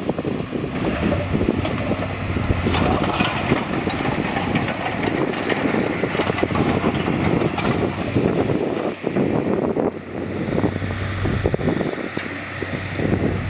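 Heavy diesel earthmoving machinery running steadily, with a constant low engine drone and continuous clanking and rattling of metal and rock.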